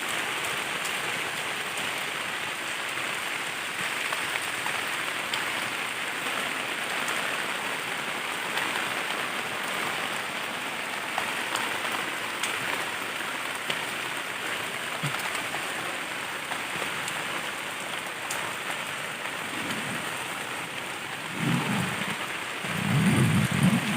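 Heavy rain falling steadily on a dome tent, a dense even patter. Near the end a loud low rumble comes in over the rain.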